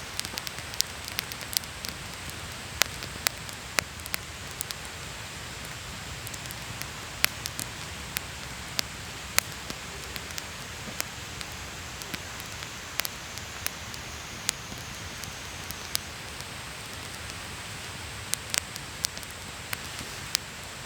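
Campfire crackling: irregular sharp pops over a steady hiss.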